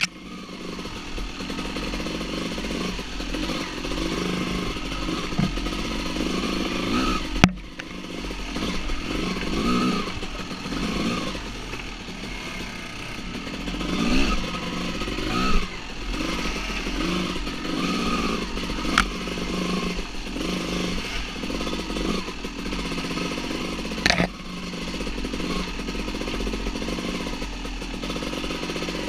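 Two-stroke dirt bike engine running and revving up and down repeatedly, with three sharp knocks spread through.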